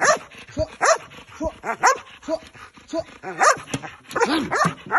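A dog barking in short, quick barks and yips, about two a second, high and excited.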